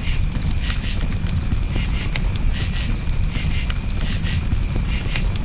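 Crickets chirping in short repeated pulses over a crackling campfire, with scattered sharp pops and a steady low rumble.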